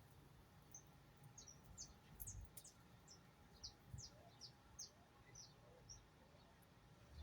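Faint chirping of small birds: a quick series of short, high, downward-sliding chirps, a few each second, with a couple of soft low thumps among them.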